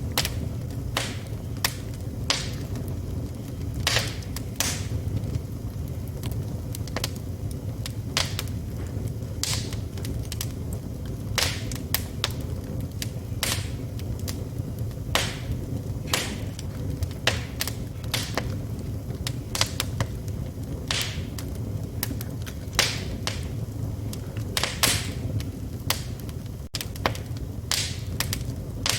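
Wood fire crackling in a fireplace: sharp, irregular pops and snaps, a couple each second, over a steady low rumble of the flames.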